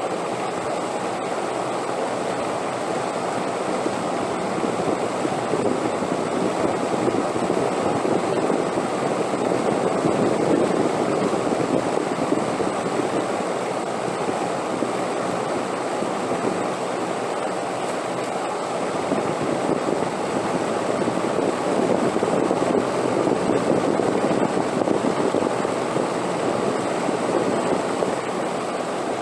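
Wind blowing in a steady rush that swells into gusts about a third of the way in and again in the later part, then eases.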